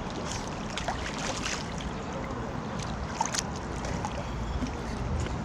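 Pool water lapping and splashing in short crackly bursts, with wind rumbling on the microphone.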